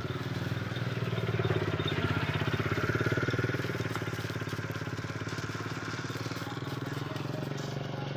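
A small engine running with a fast, even pulse, louder for the first few seconds, then steady and slightly quieter.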